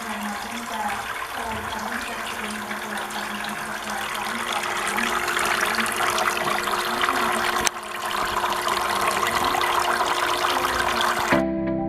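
Water splashing and trickling steadily from a small DIY plastic-bottle tabletop fountain, with a brief break about two-thirds through. Music comes in right at the end.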